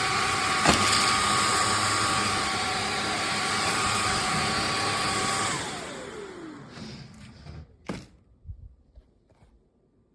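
CHEBIO cordless stick vacuum cleaner running with a steady high whine. About five and a half seconds in it is switched off, and the motor's pitch falls as it spins down. There is a sharp click near the start and a knock about eight seconds in.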